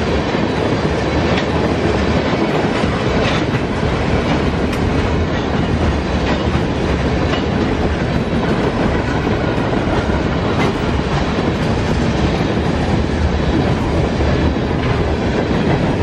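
Freight train of tank cars and a covered hopper rolling past: a steady rumble of steel wheels on the rails, with scattered clicks at the rail joints.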